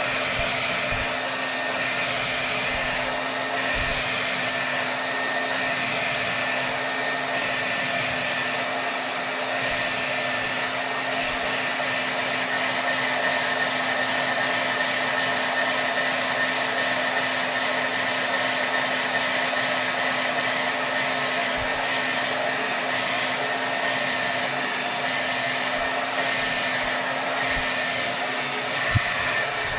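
Hair dryer blowing steadily on its highest setting, a continuous rush of air with a steady motor whine. A brief low thump comes near the end.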